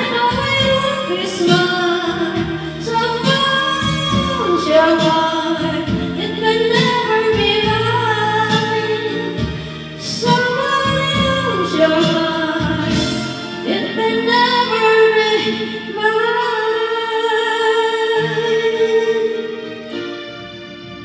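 A woman singing over a karaoke backing track, ending on a long held note with vibrato that fades out near the end.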